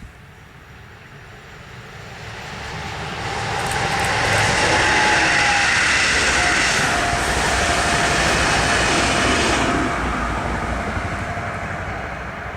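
A train passing by: the rumble builds over a couple of seconds, stays loud for about six seconds with a faint whine in it, then drops off suddenly and fades as the train recedes.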